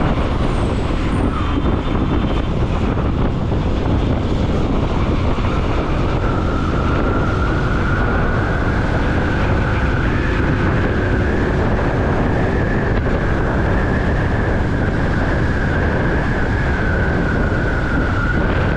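Bajaj Pulsar NS200 motorcycle riding in traffic: its single-cylinder engine runs under heavy, steady wind and road noise. A whine appears about six seconds in, rises slightly and eases off near the end.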